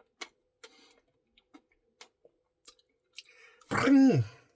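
Faint, scattered wet mouth clicks of someone eating ice cream, then near the end a short, loud vocal sound that slides down in pitch.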